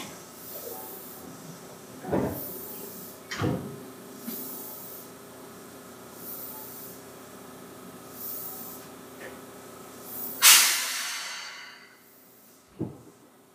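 Inside a Seibu 2000 series electric train car: a steady low hum with a few knocks, then a loud burst of compressed-air hiss about ten seconds in that fades away over a second or so.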